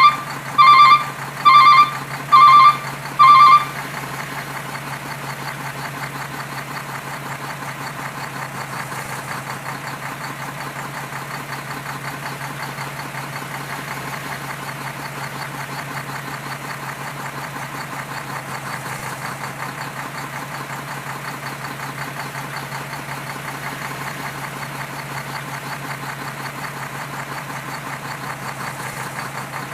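Truck reversing alarm beeping five times, loud and evenly spaced, over the engine, stopping about three and a half seconds in; the heavy truck's engine then idles steadily.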